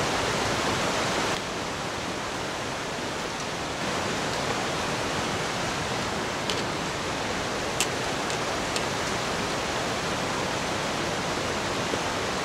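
Steady rush of a mountain river flowing over boulders, a little quieter after about a second and a half, with a few faint clicks in the second half.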